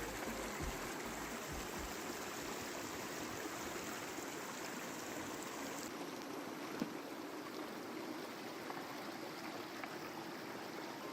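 Steady rush of a stream's running water. A few low thumps come in the first couple of seconds, and one sharp click about seven seconds in.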